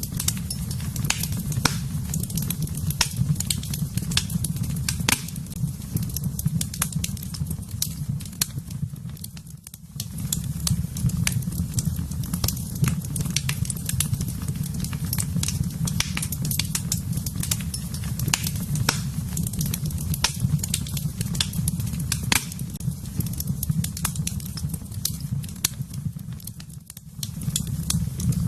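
Wood fire crackling, with many irregular sharp pops and snaps over a steady low rumble of the flames. The sound briefly drops away twice, about a third of the way in and near the end.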